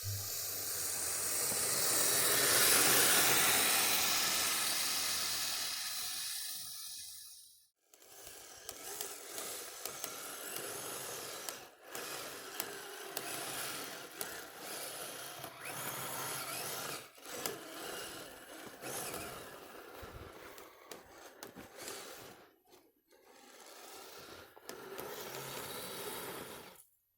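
Kyosho Blizzard RC tracked snow vehicle driving through snow, its tracks scraping and churning. A loud continuous scrape for the first several seconds fades and stops, then comes a long run of choppier scraping with brief pauses.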